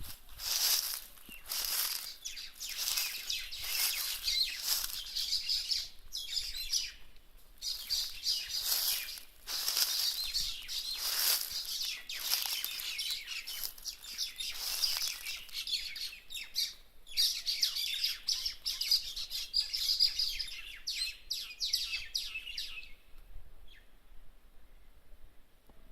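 Many birds chirping together in a dense, continuous chatter of high chirps that dies away about three seconds before the end.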